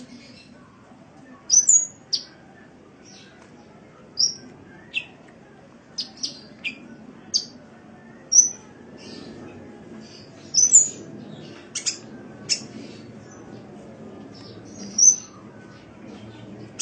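Sunbird ('kolibri') calling: a series of short, high chirps and quick sweeping tweets, about fifteen in all, spaced irregularly, over a faint low background hum.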